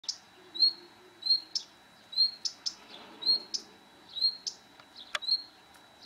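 A bird chirping repeatedly, about two short high chirps a second, each a quick sharp sweep running into a brief whistled note. A single sharp click about five seconds in.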